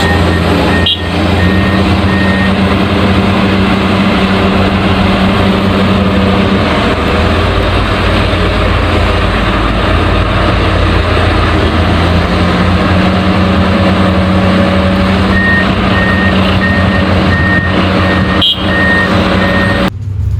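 Backhoe loader's diesel engine running steadily, with its reversing alarm beeping in a series of short beeps at the start and again near the end.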